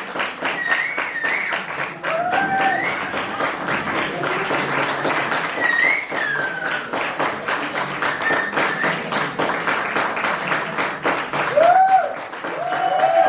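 Audience applauding, a dense patter of clapping with scattered short whoops and shouts from voices in the crowd.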